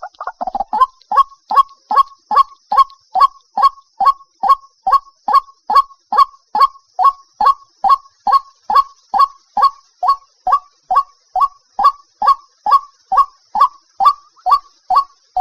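White-breasted waterhen calling: a jumbled burst of notes at first, then a steady run of loud, evenly repeated notes, about two and a half a second. This is a recorded lure call used to draw waterhens to a trap.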